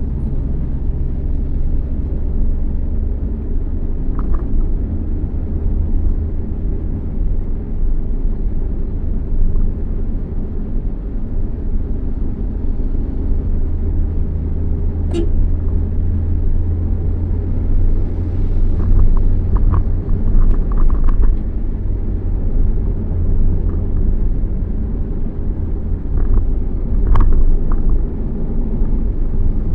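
Steady low rumble of a car driving, with a couple of brief clicks.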